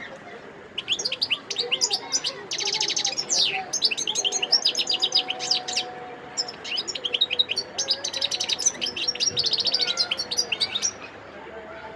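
Wild-caught European goldfinch singing: a fast, continuous run of chirps and rapid trills, starting about a second in and stopping shortly before the end.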